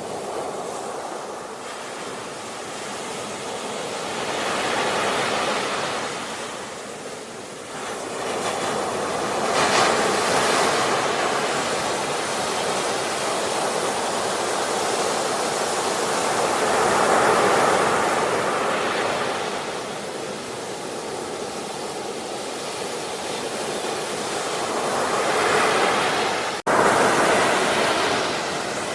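Sea waves breaking and washing ashore, the surf swelling and ebbing every few seconds. The sound cuts out for an instant near the end and comes back louder.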